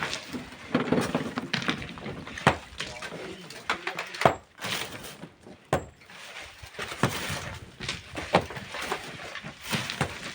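Hand tools striking hard in a steady work rhythm: a series of sharp impacts, about one every second and a half.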